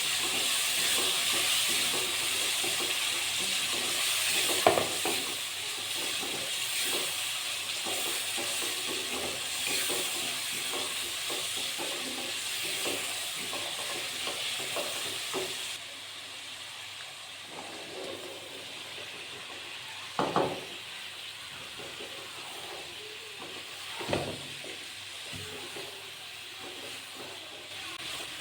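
Masala and chicken sizzling as they fry in a pot, stirred with a spoon that scrapes and clicks against the pan and knocks on it a few times. The sizzling drops off about halfway through.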